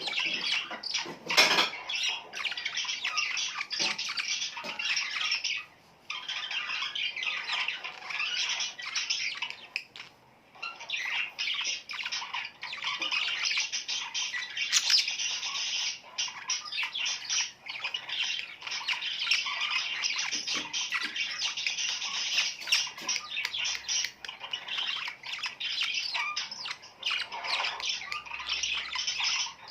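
A flock of small birds chirping and squawking together in a dense, continuous chatter, with brief pauses about six and ten seconds in.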